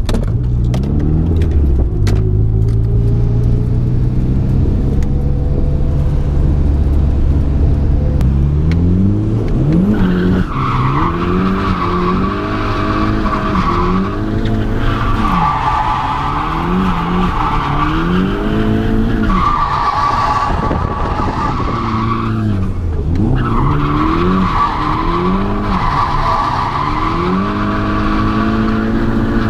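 Turbocharged 2.0-litre four-cylinder SR20DE engine of a Nissan S13, heard inside the cabin. It runs at low, steady revs for the first several seconds, then revs up and down over and over as the car drifts. From about ten seconds in, tyre squeal comes in long stretches with short breaks between them.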